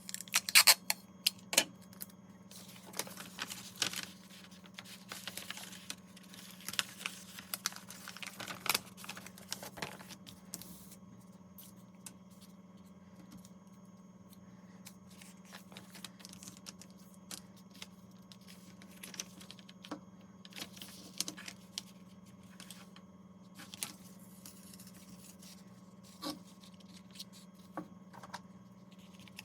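Paper and craft materials being handled: rustling, scraping and light taps, busy for the first ten seconds or so and then only scattered clicks, over a steady low hum.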